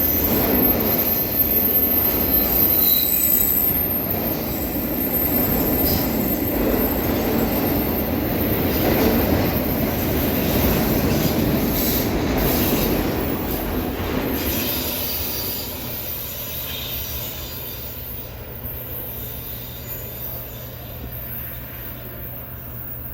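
Norfolk Southern autorack freight cars rolling past, a steady rumble of steel wheels on rail that fades away about fifteen seconds in as the train passes.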